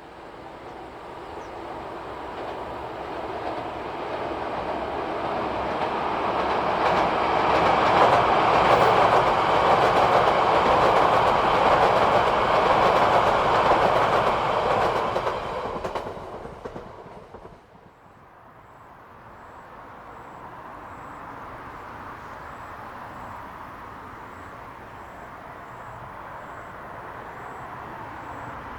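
Yamagata Shinkansen train passing by with a clickety-clack of wheels on rails. Its noise builds over several seconds, stays loud, then drops off sharply about 17 seconds in as the train goes by, and a quieter steady rumble follows.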